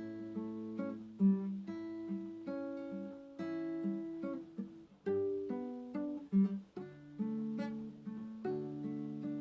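Acoustic guitar playing a slow, gentle piece of plucked notes and chords, each note left to ring.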